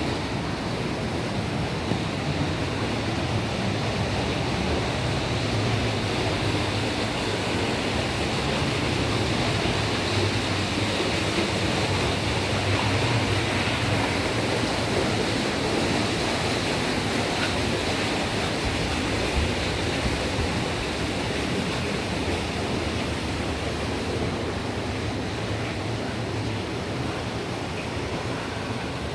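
Steady rushing of wind and water with a constant low hum underneath, heard aboard a tour boat.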